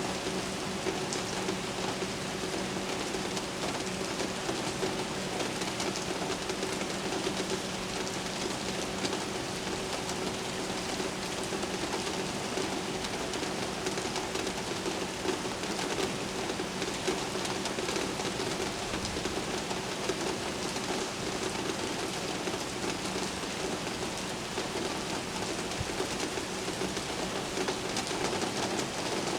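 Steady rain falling during a thunderstorm, an even hiss of drops with no thunder, over a steady low hum.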